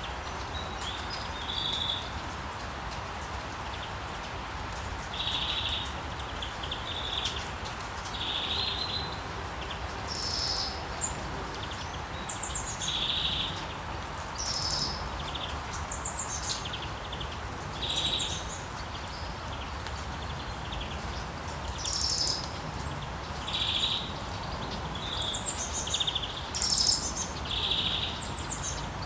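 Rainforest ambience: a steady hiss of rain with birds calling over it, short chirps repeating every second or two and coming faster near the end.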